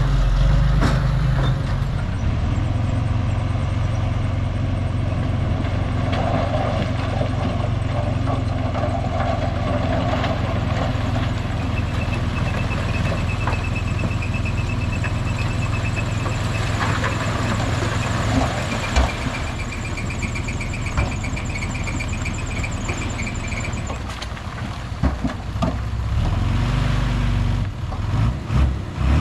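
Heavy diesel earthmoving machinery running steadily under load, with a faint high-pitched chatter that comes and goes in the middle.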